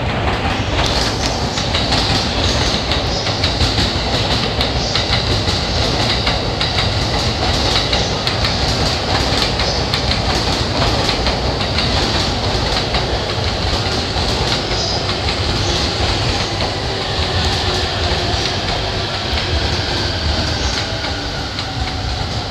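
Electric commuter train moving slowly through the station, its wheels clicking over rail joints and points with a steady rumble and a faint high wheel squeal.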